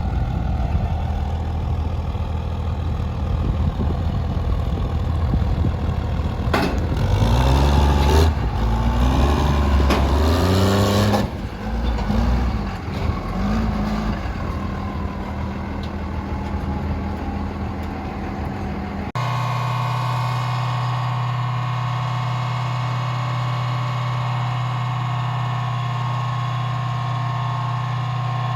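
Diesel pickup truck engine running steadily, then revved hard for about four seconds, rising in pitch with a rush of noise, before dropping back with a few short blips and settling to a steady run. About two-thirds of the way in it cuts abruptly to a different, even engine drone.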